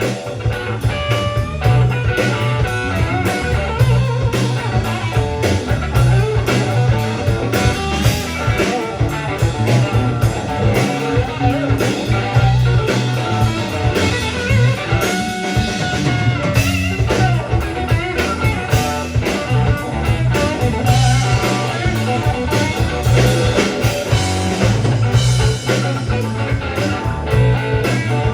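Band music in a blues-rock style: guitar playing over a drum kit with a strong, steady bass line.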